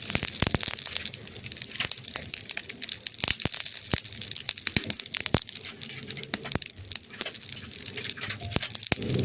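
Wood fire crackling: a steady hiss with many sharp snaps and pops at irregular moments.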